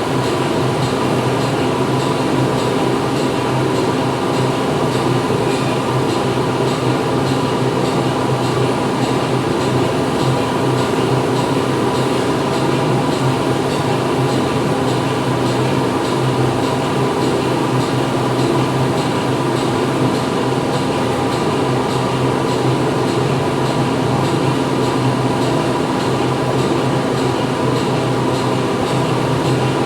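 Factory machinery running steadily: a constant industrial drone with several steady humming tones over a broad noise, unchanging throughout.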